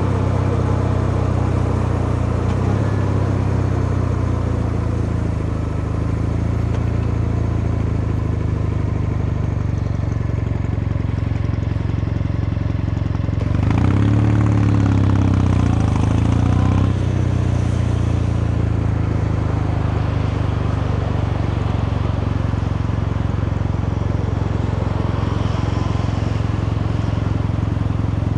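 Kawasaki Meguro K3's vertical-twin engine and exhaust running steadily under way. About halfway through, the revs climb and fall for roughly three seconds, louder while they do.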